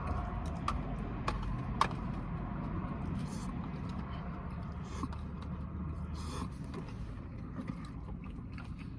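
Eating noises: a few sharp clicks and light handling sounds from the food and its container, the loudest just under two seconds in, over a steady low rumble.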